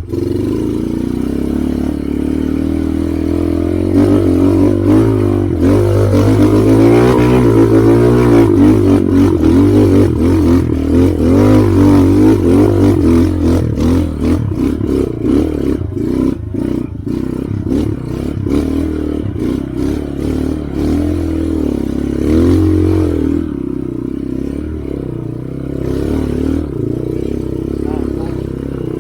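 Trail motorcycle engine revving up and down under load on an uphill dirt trail, with clatter and knocks from the bike over rough ground. It gets louder about four seconds in and eases off in the last few seconds.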